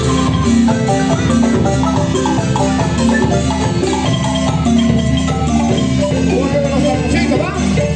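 Chiapas marimba playing a lively dance tune: fast struck mallet notes over a steady, repeating bass line.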